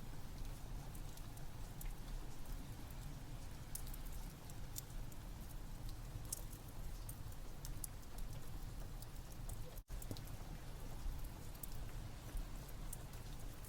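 Steady rain with a low rumble, over which a wood fire crackles in scattered sharp pops. The whole sound cuts out for an instant about ten seconds in.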